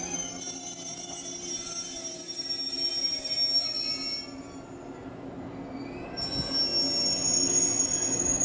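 Shinano Railway 115-series electric train ('Rokumon') rolling slowly into the platform and stopping. Its wheels and brakes squeal in several high steady notes over a low steady hum. One squeal note ends about four seconds in, and a new, different one starts about two seconds later.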